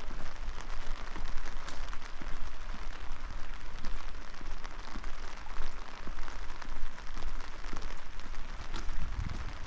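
Steady rain falling, a dense hiss made of countless small drop hits, over a low rumble.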